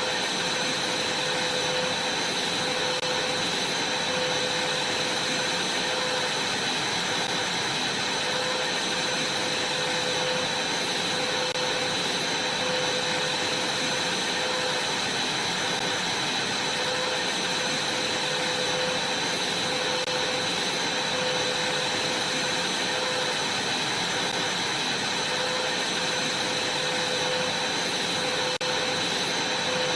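Vacuum cleaner running steadily: a constant rushing hiss with a steady whine over it, unchanging throughout.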